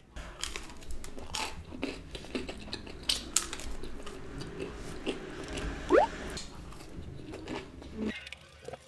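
A person chewing a mouthful of cheese-stuffed garlic bread close to the microphone, with irregular wet chewing and crunching clicks.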